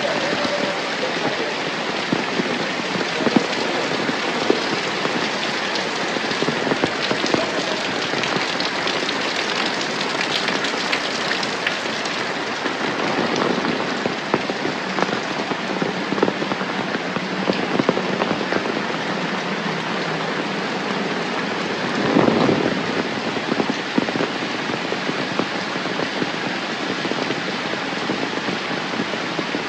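Steady rain falling, a dense patter of drops with many small individual ticks. There is a brief louder swell about three-quarters of the way through.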